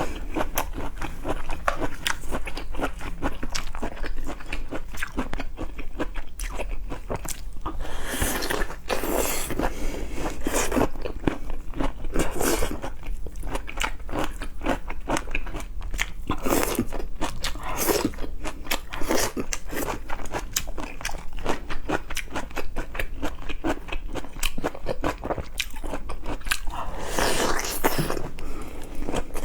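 A person chewing and biting food, with crunching and many irregular small clicks throughout.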